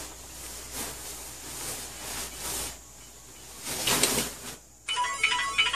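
Soft hissing, rustling noise with a few louder swells, then, about five seconds in, a mobile phone ringtone suddenly starts playing a short repeating melody.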